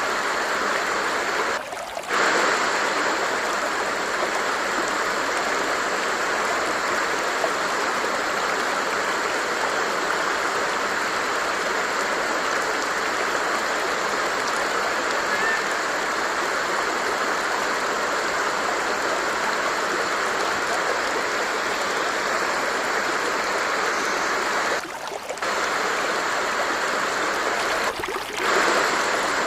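Stream water flowing in a steady, continuous rush, with three short dips in level: one about two seconds in and two near the end.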